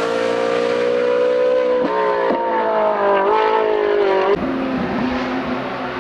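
Hill-climb race car engine pulling hard at high revs, with two brief dips in pitch about two seconds in, then rising again, and a sudden drop in pitch about four and a half seconds in.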